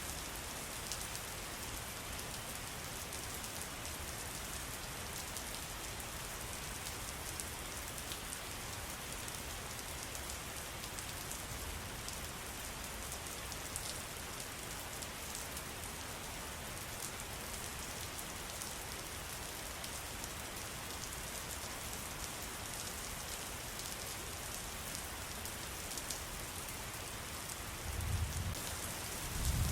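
Steady rain, a dense even hiss with a fine patter of drops. A low rumble rises near the end.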